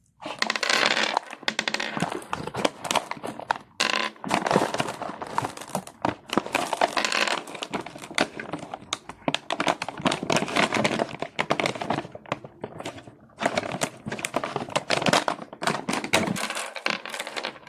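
Plastic snack packaging crinkling and rustling as it is handled and opened, a continuous crackle broken by a few short pauses.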